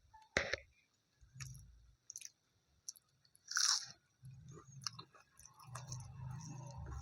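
Close-miked eating: a sharp crunchy bite just after the start and another loud crunch about halfway, then steady wet chewing.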